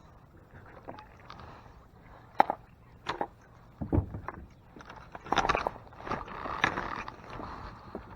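Scattered knocks and scrapes of gear being handled in a small fishing boat, a few single thuds and then a busier clatter in the second half.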